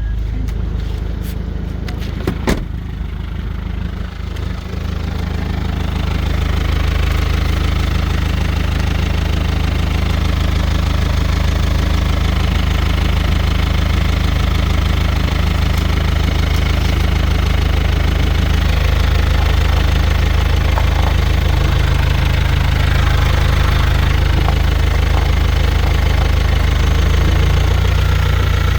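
Hyundai Tucson's 2.0 CRDi D4EA four-cylinder common-rail turbodiesel idling steadily. A few sharp clicks come about two seconds in, and the engine gets louder about six seconds in.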